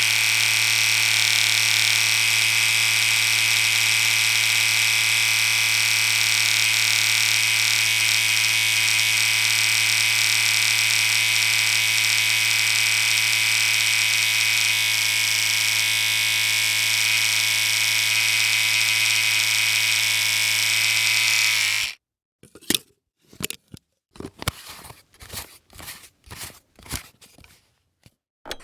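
A steady electric machine hum with a bright buzz on top, which cuts off suddenly near the end. A quick string of short, irregular clicks and bursts follows.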